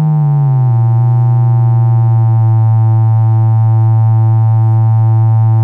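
Two Eurorack analog oscillators sound a low note together. During the first second the Make Noise STO's sine wave glides down in pitch to unison with the XPO's filtered spike wave. Once they are near unison, the combined tone pulses evenly, about two to three times a second, as the two drift in and out of phase.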